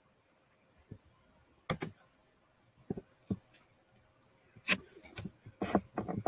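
A few scattered short clicks and taps, quiet in between, with a quick cluster of them near the end.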